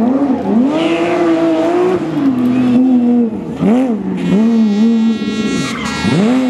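Porsche 911 GT3 rally car's flat-six engine revving hard on a tarmac stage, its pitch climbing and falling through gear changes with sharp drops in revs about three times. A high whine sits over the engine from about four seconds in until near the end.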